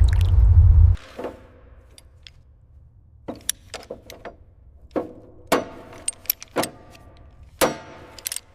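A low rumble for about the first second, then a series of sharp metallic clinks and knocks, roughly ten spread irregularly, from tools or parts being handled.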